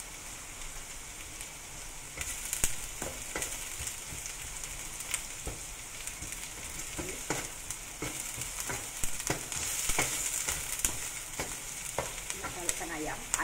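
Sliced onion and blended aromatics sizzling in hot oil in a wok, stirred with a wooden spatula that scrapes and taps against the pan. The sizzling grows louder about two seconds in, with taps of the spatula scattered through.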